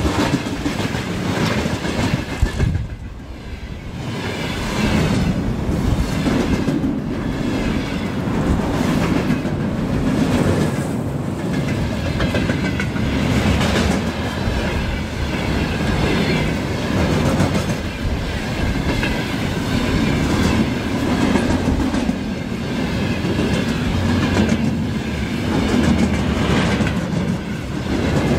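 Railway cars rolling past close by, their wheels clattering over rail joints in a repeating rhythm, with a short dip in loudness about three seconds in.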